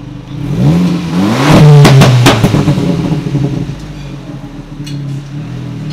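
Abarth Punto's turbocharged 1.4-litre four-cylinder engine revved once from idle, with the performance muffler removed and only the resonator left in the exhaust: the revs climb over about a second, hold briefly with two sharp cracks, then fall back to a steady idle. The note stays bassy rather than raspy or high-pitched, the resonator still muffling it.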